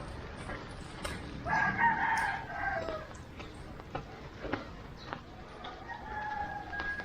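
A rooster crowing twice. The first crow is louder and starts about one and a half seconds in, dropping in pitch at its end; the second is fainter and comes near the end.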